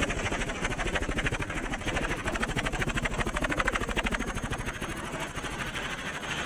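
Helicopter rotor chopping steadily, a rapid even beat, a little quieter near the end.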